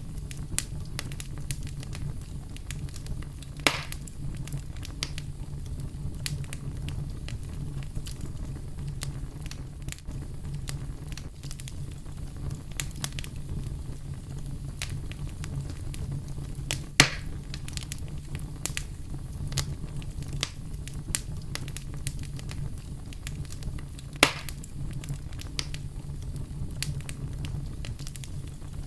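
Wood fire burning with steady crackling over a low rumble of flames, punctuated by three louder pops, the loudest about midway.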